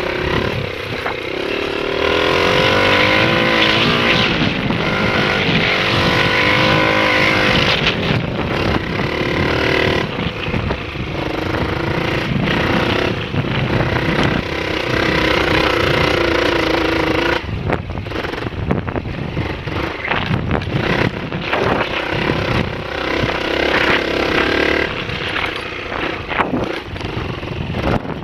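Honda XLR125 dirt bike's single-cylinder four-stroke engine running, its pitch rising and falling several times as the throttle is opened and closed, with wind thumping on the microphone throughout.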